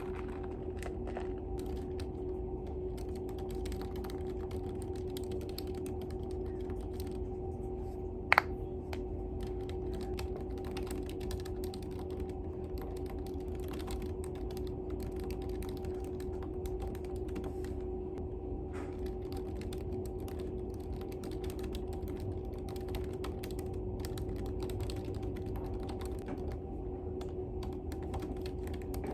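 Typing on a computer keyboard: a continuous patter of light key clicks over a steady low hum, with one sharp, louder click about eight seconds in.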